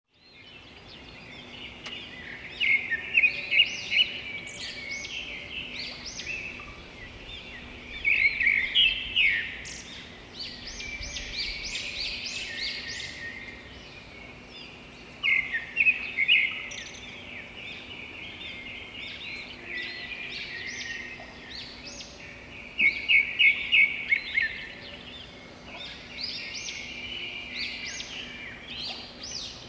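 Several wild birds singing and calling at once in a dense chorus of chirps and trills. A louder, fast repeated song phrase comes back about every seven seconds. A faint steady low hum sits underneath.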